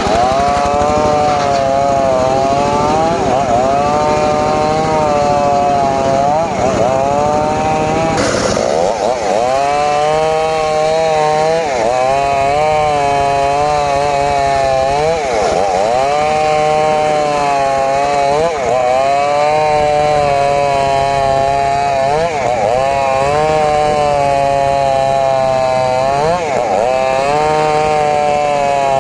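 Engine-driven saw cutting wood, running continuously. Its pitch sags each time the blade bites and recovers between cuts, every few seconds, with a short harsh burst about eight seconds in.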